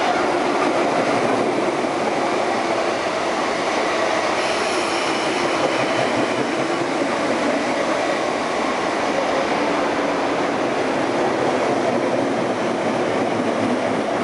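Electric multiple-unit commuter train running into a station platform: a steady, loud rumble of wheels on rail and traction equipment, with a faint high whine a few seconds in.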